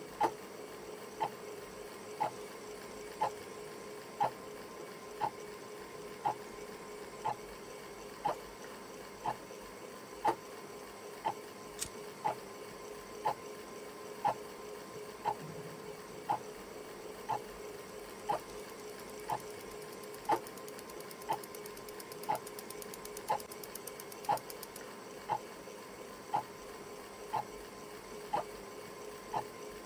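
Clock ticking steadily about once a second over a faint continuous hum.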